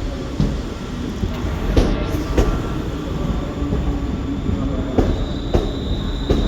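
A train running through the station, its wheels clacking over rail joints and points over a steady rumble, with a thin high wheel squeal setting in near the end.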